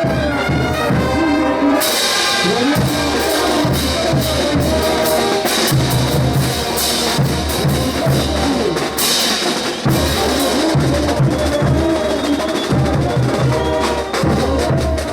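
Bolivian brass band playing Ch'uta dance music: brass melody over a steady bass-drum beat, with cymbals and snare joining about two seconds in.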